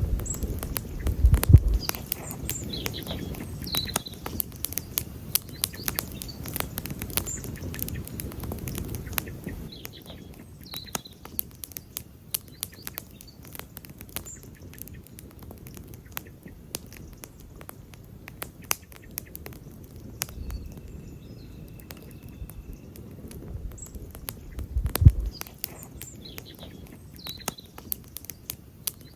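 Campfire crackling, with frequent sharp pops and snaps. Two brief low rumbles stand out as the loudest moments, one about a second in and one near the end. Short bird chirps come and go in the background.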